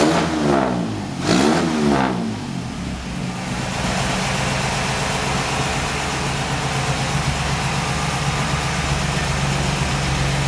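1958 Chevrolet's engine running through its new exhaust: it is blipped twice in the first couple of seconds, pitch rising and falling each time, then settles into a steady idle.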